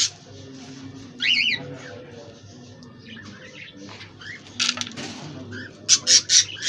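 Budgerigars squawking: a warbling chirp about a second in, a pair of short harsh squawks near the middle, and a quick run of four harsh squawks near the end, over faint chatter from the flock.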